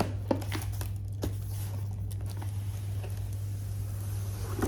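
Cardboard box being opened by hand: a few sharp clicks in the first second or so, then light rustling and scraping of the packaging, over a steady low hum.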